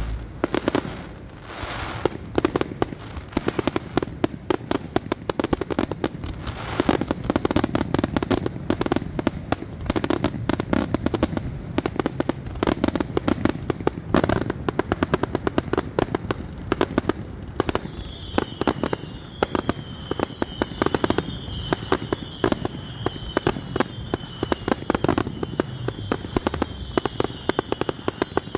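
Fireworks going off in a dense, continuous barrage of rapid bangs and crackles. About two-thirds of the way in, a high wavering tone joins and keeps going to the end.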